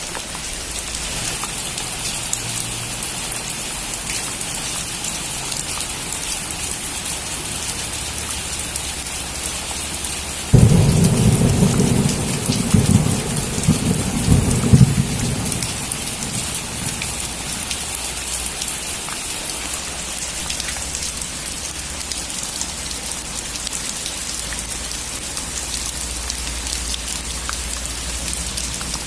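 Steady heavy rain falling. About a third of the way in a sudden crack of thunder breaks in and rolls for about five seconds before fading back under the rain.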